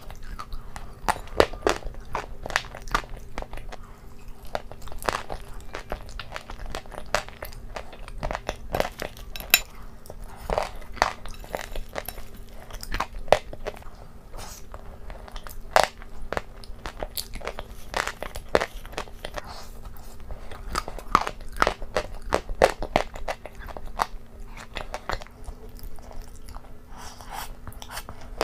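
Close-miked eating: a person biting and chewing crunchy food taken from a bowl with a spoon, a steady stream of irregular crisp crunches and wet mouth clicks over a faint steady hum.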